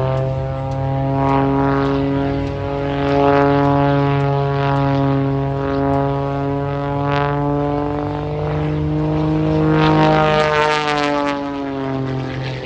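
Edge 540 aerobatic plane's piston engine and propeller running hard through manoeuvres. The engine note wavers, rises about ten seconds in, then drops.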